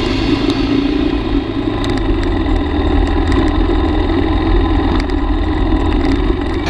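Yamaha XT250 dual-sport motorcycle's single-cylinder four-stroke engine running steadily as the bike is ridden.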